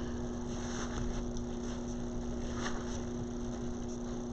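Steady low electrical hum over background hiss, with a couple of faint brief rustles, one about a second in and one past the middle.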